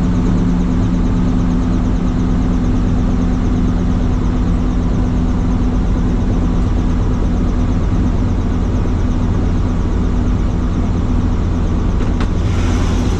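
Helicopter's engine and rotor running with a steady drone and low hum. Near the end there is a brief click and the hiss grows brighter.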